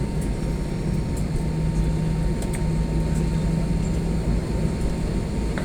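Steady cabin noise of an Airbus A320 on the ground: the air-conditioning and ventilation airflow with a constant low hum, and a few faint clicks.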